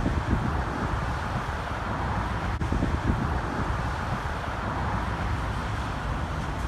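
Steady low rumble of motor vehicle engines and street traffic, with wind buffeting the microphone at times.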